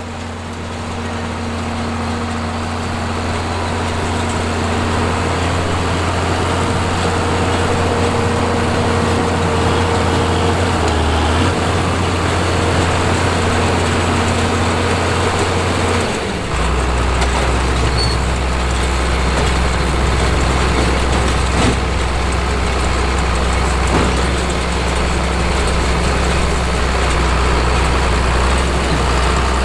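John Deere 4430 tractor's turbocharged six-cylinder diesel running steadily while pulling a round baler through hay. About halfway through, the low engine note drops to a deeper pitch.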